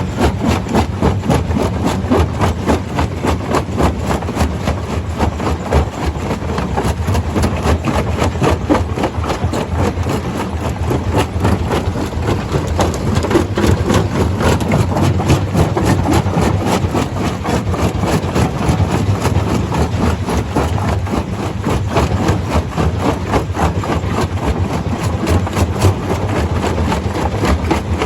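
Stone crusher running steadily: a heavy machine drone with a dense, continuous rattle and clatter throughout.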